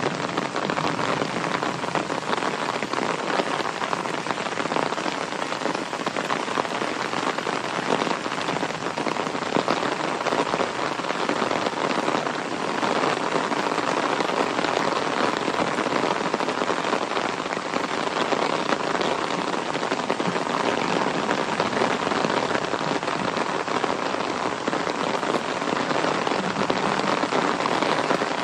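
Steady rain falling, a dense, even hiss of drops that holds at one level.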